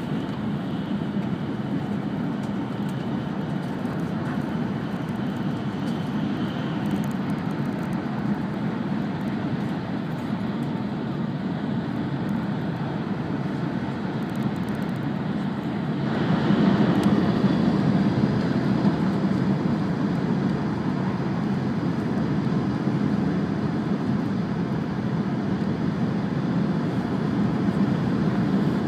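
Steady running noise inside the cabin of an E5-series Shinkansen at speed: a low rumble with a hiss over it, growing louder and brighter a little past halfway.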